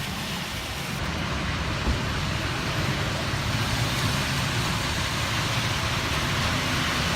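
Steady city street noise: a continuous rumble and hiss of road traffic, with no single distinct event.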